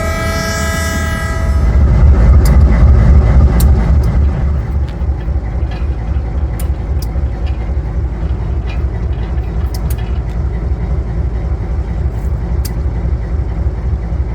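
A diesel locomotive's air horn sounds and cuts off about a second and a half in, followed by the deep, steady rumble of the GE U23B locomotive's diesel engine, louder for a couple of seconds before settling to an even running sound with a few faint clicks.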